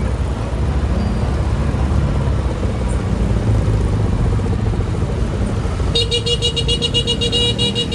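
Steady low rumble of a motorbike engine and road noise. About six seconds in, a vehicle horn sounds and is held for roughly two seconds with a rapid pulsing buzz.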